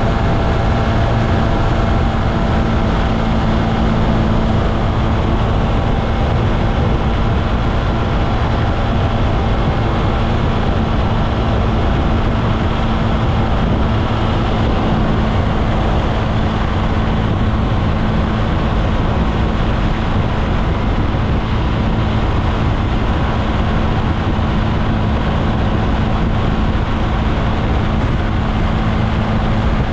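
SYM Maxsym TL 508 scooter's parallel-twin engine running at a steady pace while riding, under a constant haze of wind and road noise.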